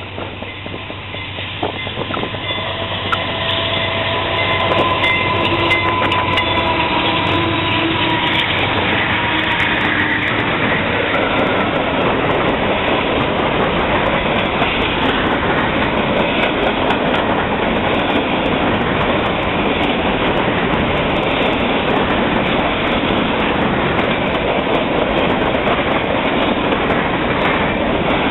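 CSX freight train passing close: the diesel locomotives come up and go by, getting louder over the first few seconds, then the steady rumble and clickety-clack of covered hopper cars rolling past on the rails.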